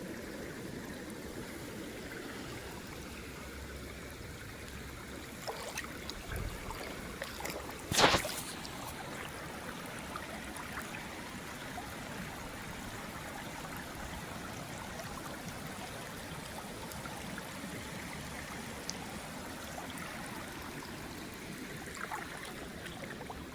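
Floodwater running steadily, like a stream, with one loud, sharp knock about eight seconds in and a few softer ones shortly before it.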